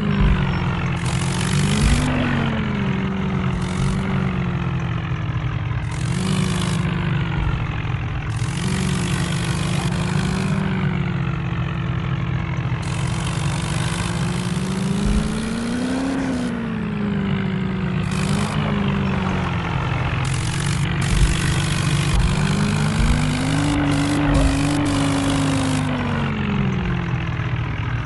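Remote-control toy tractor running, a steady droning hum whose pitch swells up and falls back every few seconds.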